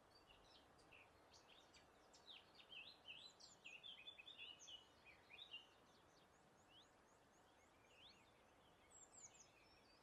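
Several songbirds chirping and singing in quick overlapping phrases, busiest from about two to six seconds in, with a thin, rapid high trill near the end, over a soft steady breeze.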